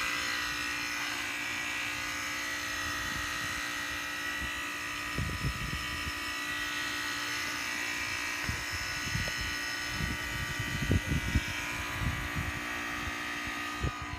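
Outdoor heat pump condensing unit running: a steady fan and compressor hum with a high, steady whine. Irregular low rumbles on the microphone come in from about five seconds in.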